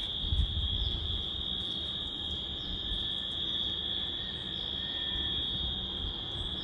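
Insect chorus, a steady high-pitched trill that never breaks, over a low rumble of wind on the microphone.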